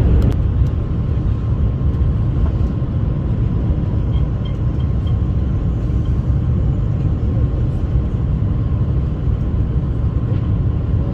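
Passenger airliner heard from inside the cabin: a steady low rumble of engines and airframe, with a faint steady whine above it.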